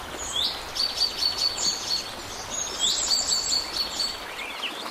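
A songbird singing two phrases, each opening with a short rising note and going on into a quick run of high repeated notes, over a steady background hiss.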